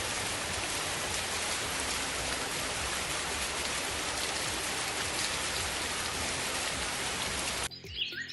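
Steady rain sound played by a white noise machine: an even hiss of falling rain that cuts off suddenly near the end.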